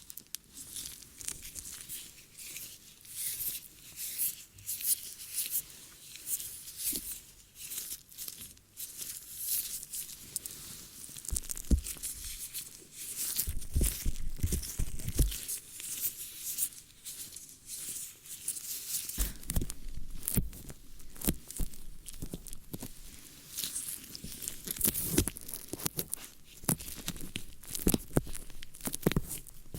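ASMR ear-cleaning sounds: close, continuous scratching and crackling, like a tool rubbing in an ear, with a few runs of dull low thumps partway through and near the end.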